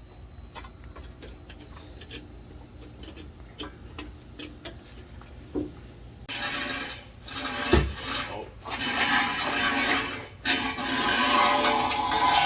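Rusted exhaust pipe on a 1998 Honda Accord being worked loose: a few light metal clicks and taps, then from about six seconds in loud, continuing metal scraping and clanking with short breaks.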